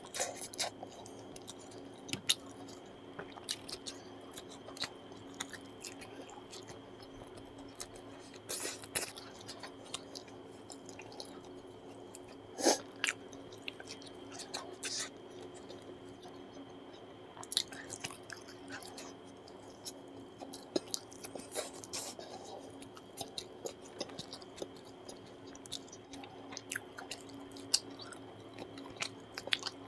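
Close-up chewing and wet mouth sounds of a man eating rice and chicken liver and gizzard curry by hand: many short, irregular smacks and squelches, with one especially sharp smack about halfway through. A steady faint hum runs underneath.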